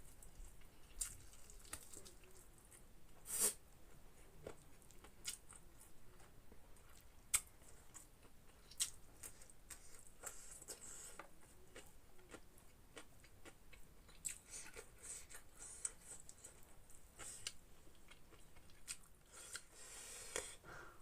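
Close-up chewing and eating sounds of pork: irregular wet smacks and squishy clicks of the mouth, with a few sharper snaps, the loudest about three and a half seconds in.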